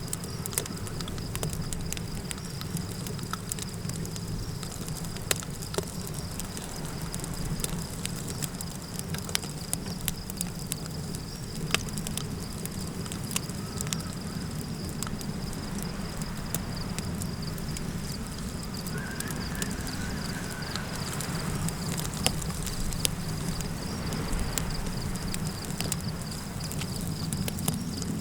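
Campfire crackling, with scattered sharp pops over a steady low rumble of wind, and a continuous high-pitched chirring of insects. About two-thirds of the way through a faint wavering call rises briefly above the bed.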